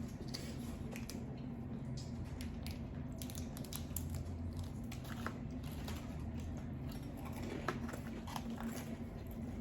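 Close-miked chewing of lo mein noodles: a run of small wet mouth clicks and smacks at an irregular pace, over a steady low hum.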